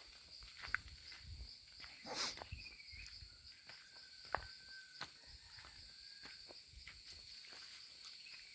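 Faint, steady high-pitched insect chirring, with scattered soft footsteps and small knocks as someone walks on a path.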